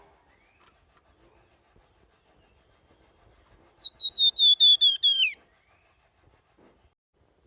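Flamboyan songbird singing one flute-like phrase about four seconds in: a quick run of about eight whistled notes that step slowly down in pitch and end in a short downward slide.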